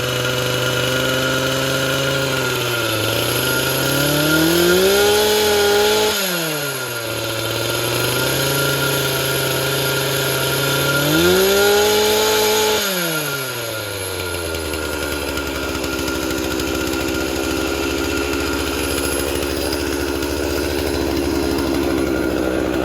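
Rebuilt Stihl 046 two-stroke chainsaw running after its first start, freshly rebuilt after a chipped piston. It idles, is revved up and held twice, falling back each time, then settles to a lower, steady idle.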